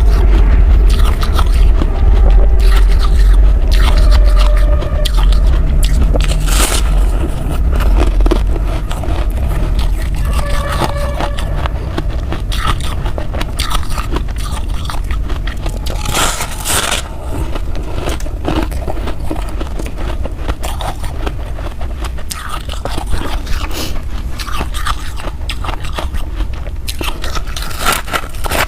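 Ice being bitten and chewed close to the microphone: a dense run of crunches and scrapes, with a deep rumble under the first eight seconds or so.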